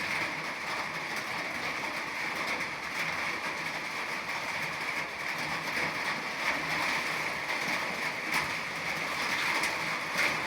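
Steady rushing noise of wind and rain outdoors as a rainstorm sets in.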